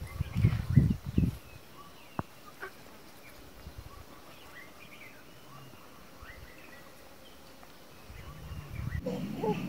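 Birds chirping sporadically in the background. A few loud dull thumps come in the first second and a half, a sharp click follows, and a low rumble builds near the end.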